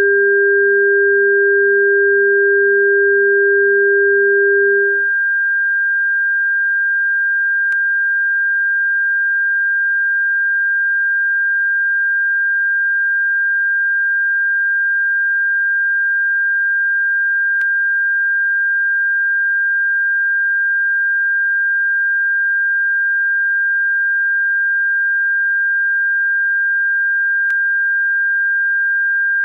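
Electronically generated bird-repellent tone: a steady, high-pitched pure tone, joined by a second, lower pure tone that stops about five seconds in.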